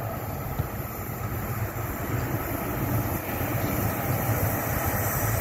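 HŽ series 1141 electric locomotive hauling a mixed freight train as it approaches: a steady rumble with a low hum that grows gradually louder.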